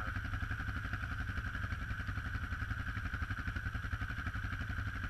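ATV engine running steadily at low revs, an even rapid chugging with no change in speed.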